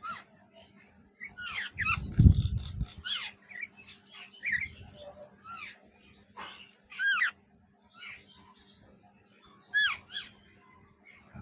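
A parrot giving short chirping calls in scattered bursts every second or two. There is a low thud about two seconds in and a faint steady hum beneath.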